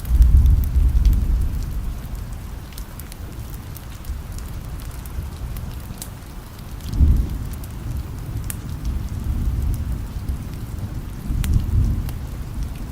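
Steady rain with low thunder rumbles, the strongest right at the start, others about seven seconds in and near the end. Scattered sharp ticks sound throughout.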